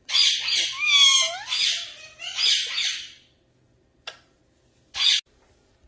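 Pet parrot squawking in a run of harsh, raspy calls that bend in pitch for about three seconds, then a short click and one brief harsh squawk near the end.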